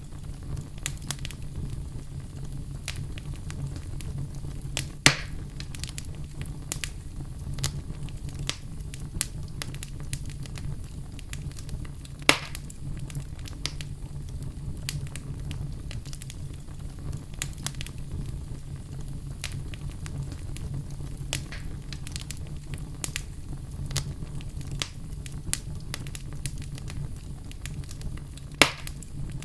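Fire burning in a fireplace: a steady low rumble of flames under continual fine crackling, with three louder sharp pops spread through.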